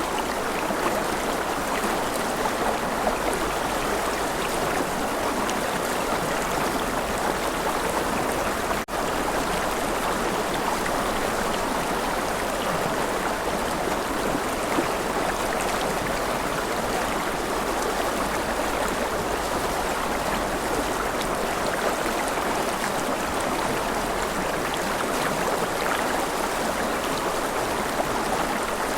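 River water flowing in a steady, even rush, with a split-second dropout about nine seconds in.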